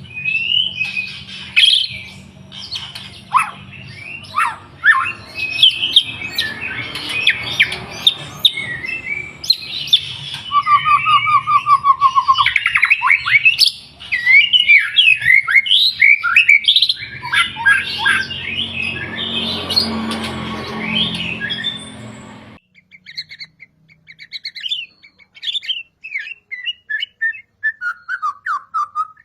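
White-rumped shama (murai batu) singing a loud, varied song of whistles, glides and chirps, with a fast trill in the middle, over a low background hum. About three-quarters through, the hum and full song cut off suddenly, and softer, more spaced chirps follow.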